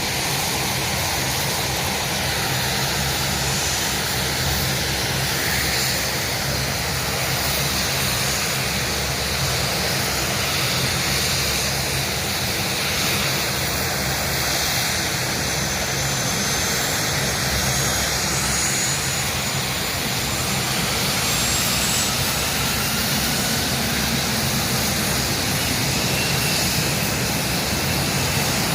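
Aircraft engine noise overhead: a steady rush with faint whining tones that slowly rise in pitch.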